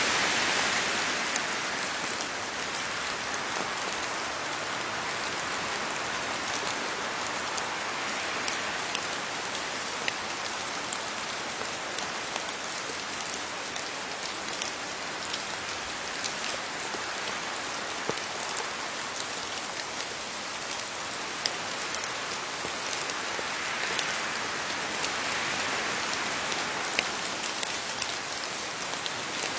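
Steady rain falling on leaves, with individual drops pattering sharply throughout. The rain swells slightly near the start and again towards the end.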